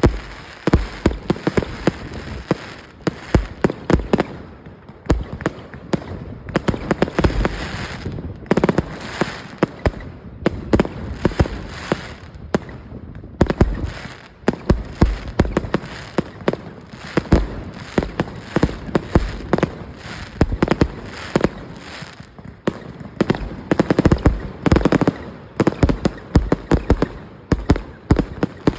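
Decorative pot firework (a ground fountain) burning, throwing out a dense, irregular stream of sharp pops and crackles over a steady hiss.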